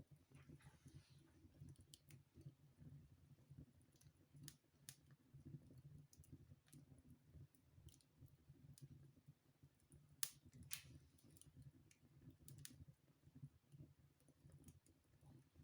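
Wood fire in a fireplace crackling softly, with scattered sharp pops (the loudest about ten seconds in) over a faint low hum.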